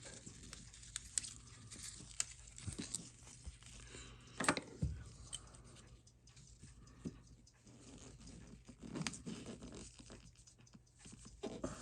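Faint, scattered small clicks and scrapes of a watchmaker's tools and watch parts being handled on the bench while he works to open a Seiko 6R15 watch case, with one sharper click about four and a half seconds in.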